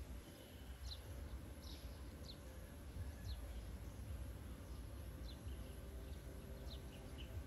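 Short, high chirps that fall quickly in pitch, about seven of them at irregular intervals of roughly a second, from a small bird, over a steady low outdoor rumble.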